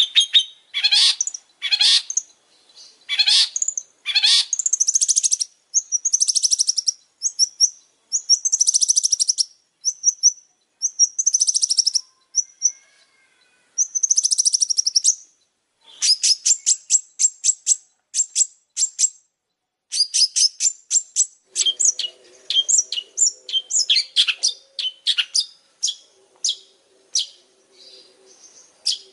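Long-tailed shrike singing: rapid, harsh chattering strokes and fast high trills in phrases, with a couple of short pauses.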